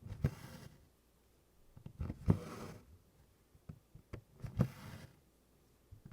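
Cross-stitch needle and DMC floss being worked through 24-count Congress cloth in tent stitch. Each stitch gives a short tap as the needle pierces the canvas, then a brief rasp as the thread is drawn through, repeating about every two seconds, three times.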